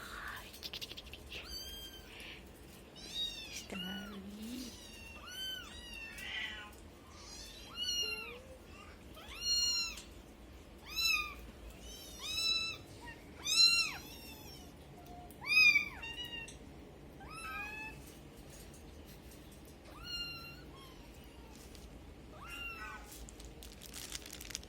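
Kittens mewing over and over: short, high-pitched calls that rise and fall, about one a second, loudest through the middle of the stretch.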